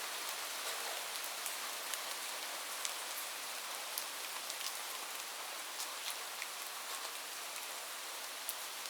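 Light rain falling steadily, an even hiss with single drops ticking irregularly on a hard surface.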